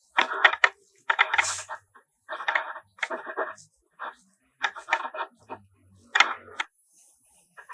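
Hard objects clinking and clattering in about six short bursts with quiet gaps between them.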